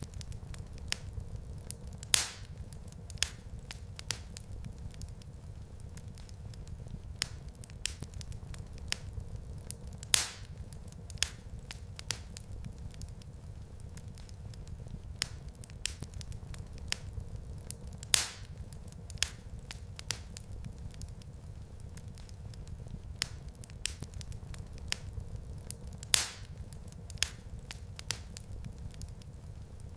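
Wood fire crackling in a fireplace: a steady low rumble of flames under frequent small crackles, with a louder pop about every eight seconds.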